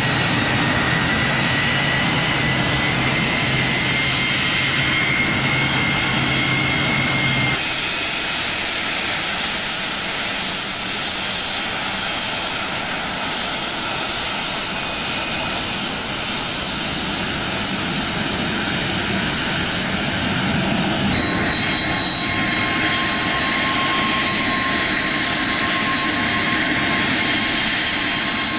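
Jet airliner engines running loudly, a steady rush with high whining tones. The sound changes abruptly twice, with a different pitch of whine each time.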